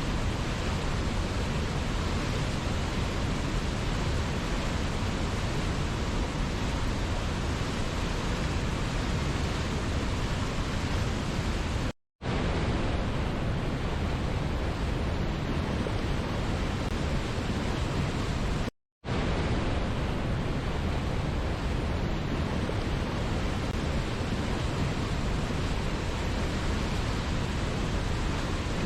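Steady, even rush of a waterfall, cut twice by a split-second dropout to silence.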